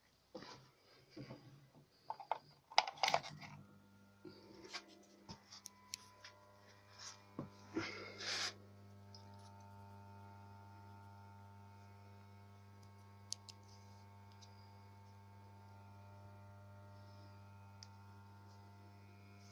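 Clicks and knocks of the TD-101UHL4 welding machine being handled and switched, then its transformer humming steadily at idle, a low mains hum with overtones that settles in once the handling stops.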